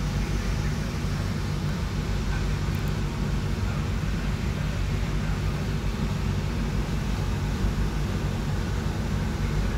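Steady low rumble and hum of a passenger train heard from inside the carriage, with no sudden events.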